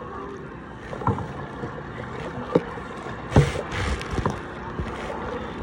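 Paddle strokes in the water, with a few sharp knocks and short splashing bursts over a steady low background.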